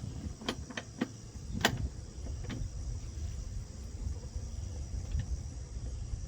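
A handful of sharp metal clicks and clinks in the first two and a half seconds, steel sockets being handled, then only a steady low rumble. Crickets keep up a continuous high chirring throughout.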